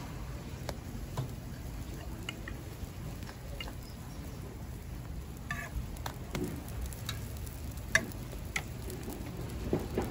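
Hotteok frying in oil on a large flat griddle, a steady sizzle, with scattered sharp clicks and clinks of metal tongs and hotteok presses against the griddle, the sharpest about eight seconds in.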